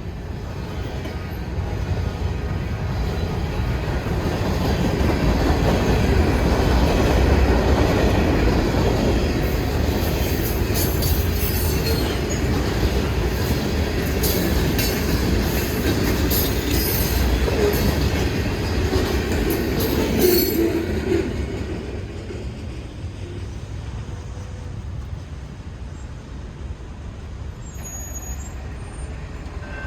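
A train rolling past, its rumble building over several seconds and holding loud, with high-pitched wheel squeal coming and going in the middle. The sound drops away about two-thirds of the way through as the train moves off.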